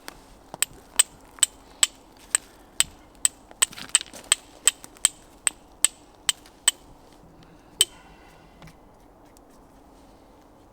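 A fire striker being struck over and over to throw sparks for lighting a campfire: sharp metallic clicks, two or three a second. The strikes stop about eight seconds in.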